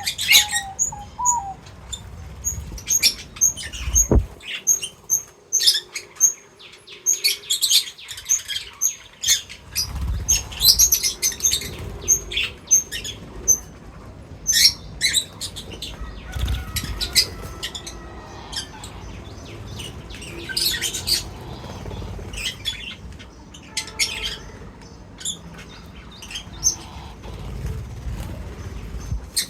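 Small birds feeding, with many quick, scattered chirps and wing flaps, and a few low thumps, the clearest about four seconds in.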